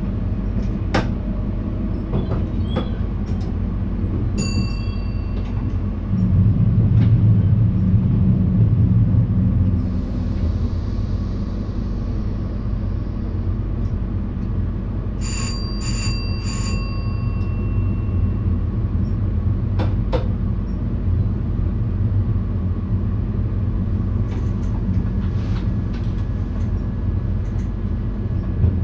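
VIRM double-deck electric train running on the rails, heard inside the driver's cab: a steady low rumble that swells for a few seconds about six seconds in, with a few sharp clicks. A short bell-like chime sounds once about four seconds in and three times in quick succession about fifteen seconds in.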